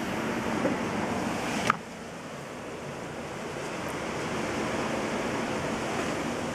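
Snowstorm wind blowing, a steady rushing noise. A sharp click comes a little under two seconds in, and after it the wind is briefly softer before building again.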